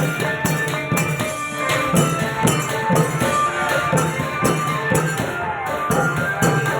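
Thai klong yao long-drum band playing a steady, driving beat, the drums mixed with small ringing cymbals and a melody line over the top.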